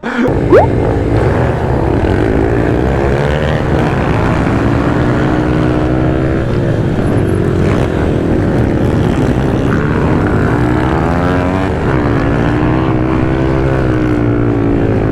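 Small four-stroke pit bike engines revving hard, their pitch rising and falling repeatedly over a steady lower drone as the bikes run through the gears around the track. A quick rising rev comes about half a second in.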